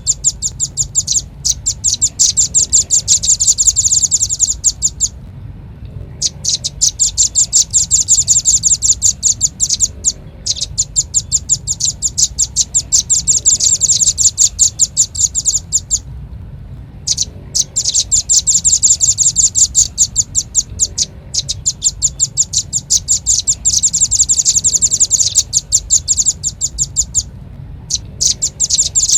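Velvet-fronted nuthatch calls played as a bird-lure recording: long, rapid trills of sharp, high chips, about ten a second. The trills are broken by short pauses several times.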